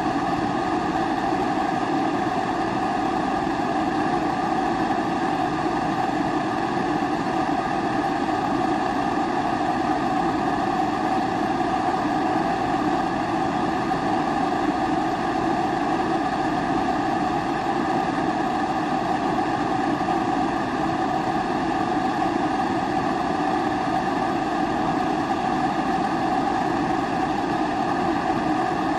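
Pressurised kerosene primus stove burning, its flame making a steady, unbroken rushing sound.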